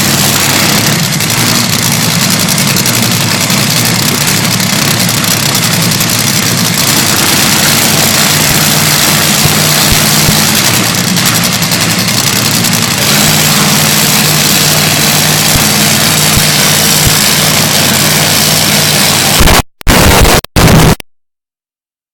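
Top Fuel dragster's supercharged nitromethane V8 idling, loud and lumpy, with the recording overloaded. It cuts off abruptly near the end, comes back in two brief bursts, then stops.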